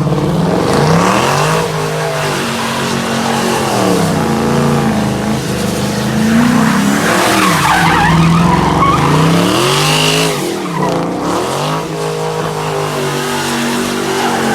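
A car engine revving up and down over and over, its pitch climbing and falling every couple of seconds, with tires squealing as the car slides in a drift.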